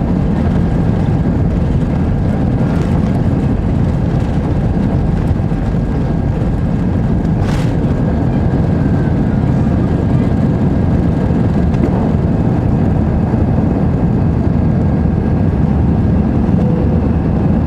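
Airbus A320 cabin noise during take-off or climb: a steady, loud rumble of the jet engines and airflow, with a faint steady high whine.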